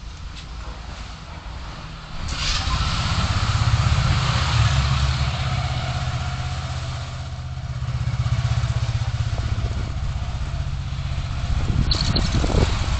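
Traffic noise: a vehicle's engine and tyre noise from a car driving in city traffic, growing clearly louder about two seconds in and staying up.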